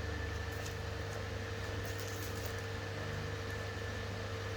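Steady machine hum with a constant low drone, two higher steady tones and a hiss underneath, broken by a few faint ticks.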